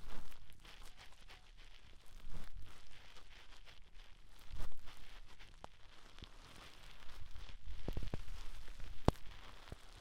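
Ear-cleaning sounds close on a binaural microphone: irregular scratching, rustling and crackling in swells a couple of seconds apart, with a sharp click near the end.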